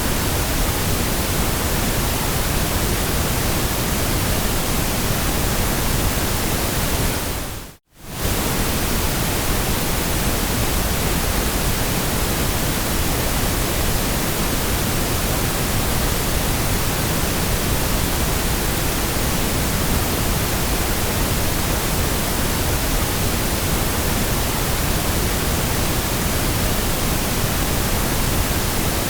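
Steady white noise, an even hiss across the whole range from deep rumble to high sizzle, that fades out to silence for a moment about eight seconds in and comes straight back.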